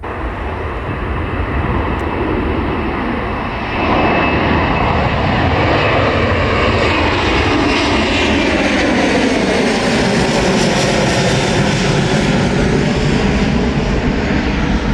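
Boeing 737 MAX's CFM LEAP-1B turbofan jet engines at takeoff thrust, a steady roar that gets louder about four seconds in, its tone slowly sweeping as the jet passes by.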